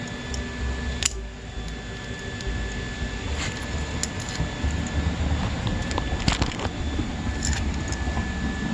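A few sharp metal clicks and clinks as dirt bike parts are handled, over a steady background hum.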